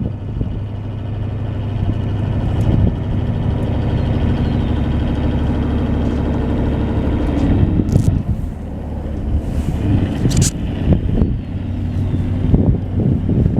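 1981 International S1954 dump truck's engine running, its steady drone building over the first few seconds and holding. About eight seconds in it drops and turns uneven, with a couple of short hisses.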